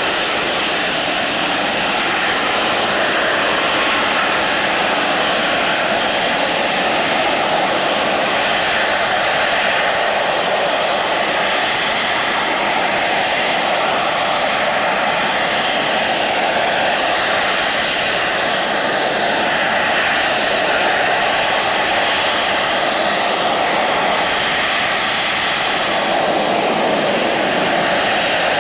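Aircraft engine noise, a loud steady rushing drone with faint continuous whine tones that hardly changes in level throughout.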